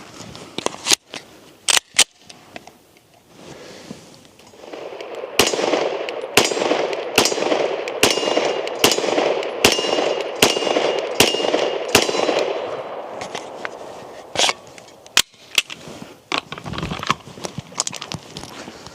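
Glock 17L Gen 5 9mm pistol firing a string of about ten shots, roughly one every three-quarters of a second, with the steel target ringing after several hits.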